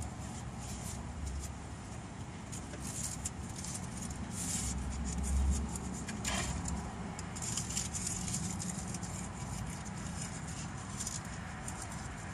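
Steady low hum of a car idling, with light crinkling and small clicks as a drinking straw and its paper wrapper are handled. About six seconds in there is a short squeak that rises in pitch.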